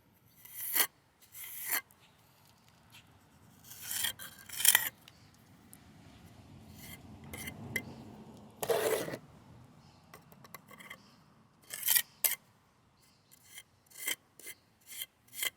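Hand tool scraping and rubbing on concrete patch mix, in irregular short strokes with pauses, the strongest about four and twelve seconds in and a longer stroke near nine seconds.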